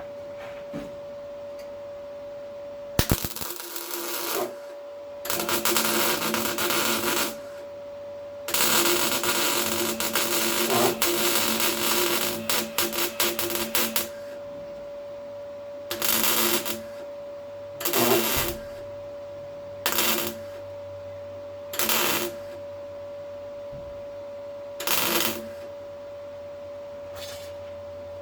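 MIG welder arc crackling on the car's steel bulkhead: three longer weld runs, the last about five seconds long, then five short tack welds about two seconds apart, with a steady hum underneath.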